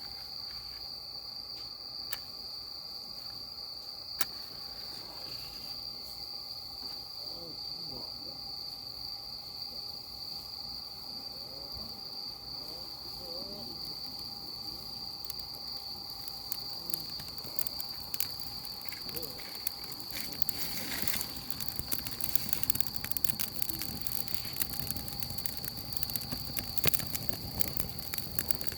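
Steady high insect chirring throughout, with a wood fire's crackling starting up about two-thirds of the way in and growing denser as the kindling catches.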